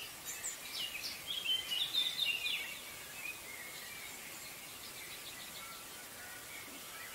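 Small birds chirping over faint steady outdoor background noise. The chirping is busiest in the first three seconds, then thins to a few scattered calls.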